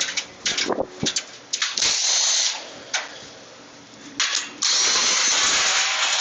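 Cordless drill/driver spinning in short trigger pulls and then a longer run, backing sheet-metal screws out of an HVAC unit's top panel.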